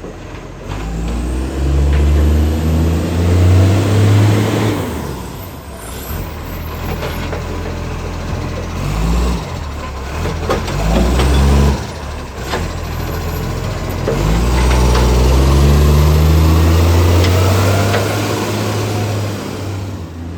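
ACCO garbage truck's diesel engine revving up twice, rising in steps and dropping back between. The truck's exhaust has a leak.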